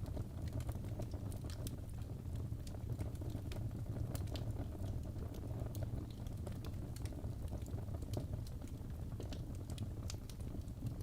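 Fireplace fire crackling: scattered small sharp pops and snaps over a steady low rumble of the flames.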